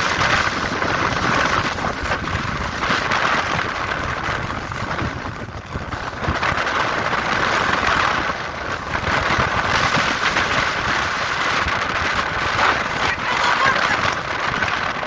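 Strong wind rushing over the microphone in uneven gusts, a steady roar that swells and dips.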